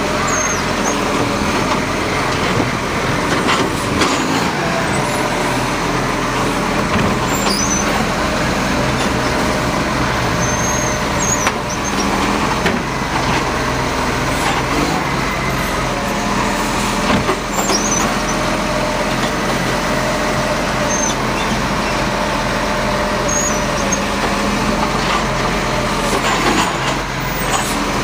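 Garbage truck's engine running steadily at close range, with short high squeaks now and then.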